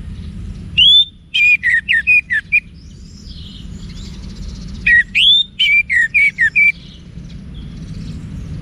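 Orange-headed thrush singing two phrases about four seconds apart, each a rising whistled note followed by a quick run of short notes.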